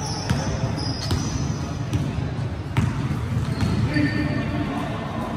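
A basketball being dribbled on a hardwood court, a few sharp bounces, with brief high sneaker squeaks and players' voices in the background.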